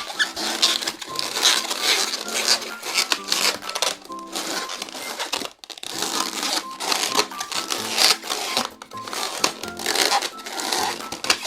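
Latex 260 modelling balloon being twisted and rubbed by hand, with squeaky, crinkly rubbing, over background music.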